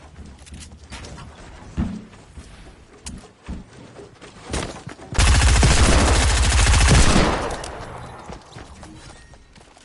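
Electric welding arc crackling in a dense, rapid buzz for about two seconds about halfway through, then dying away. Light knocks and clicks come before it.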